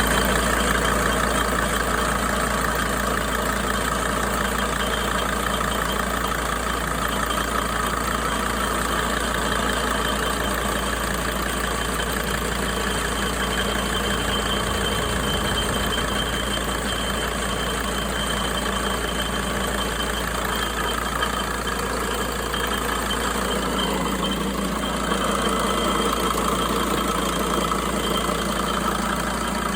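2004 Sprinter van engine idling steadily, with a thin high-pitched whistle over it that the owner cannot identify.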